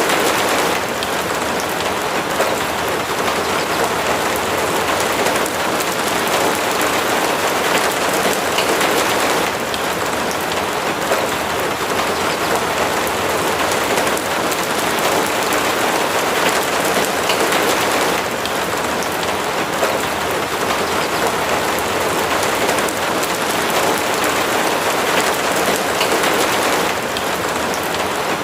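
Steady rain falling without a break.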